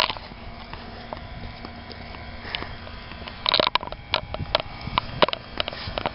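Handling and walking noise: low rumble at first, then from about halfway in a quick run of clicks, scuffs and scrapes, over a faint steady hum.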